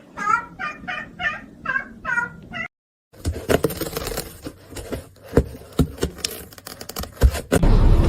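A cat chirping: a quick run of about six short chirps, each bending in pitch. After a sudden break, scattered light taps and clicks follow.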